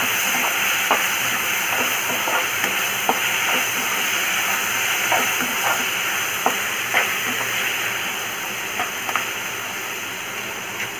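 Prawns frying in a pan with onion and tomato masala: a steady sizzle, with scattered clicks and scrapes of a metal slotted spatula stirring them.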